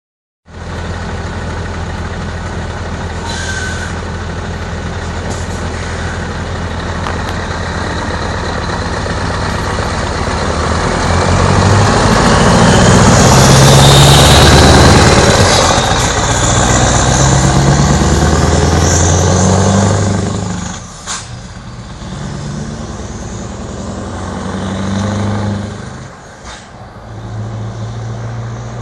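Scania R500 V8 diesel truck engine running through an open, straight-through exhaust. It grows louder to a peak about halfway, with a rising whistle on top. It then drops away suddenly, with two brief sharp sounds in the quieter last part.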